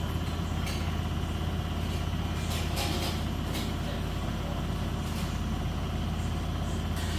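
Beko WS832425S washing machine running on its final rinse: a steady low hum with a few faint clicks.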